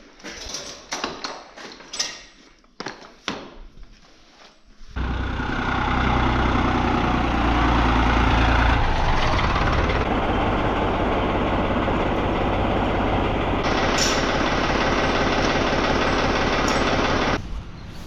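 An engine running steadily with a low, even pulsing rumble. It starts suddenly about five seconds in and cuts off abruptly near the end, after a few scattered knocks and clicks.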